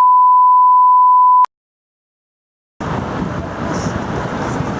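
A steady, single-pitched censor-style bleep tone edited into the soundtrack, cutting off sharply about a second and a half in. Dead silence follows for over a second, then city traffic and road noise from the ride comes back in near the end.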